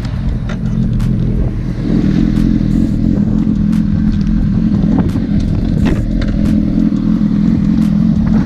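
Motorcycle engine running at a fairly steady speed, getting louder about two seconds in, then cutting off abruptly near the end.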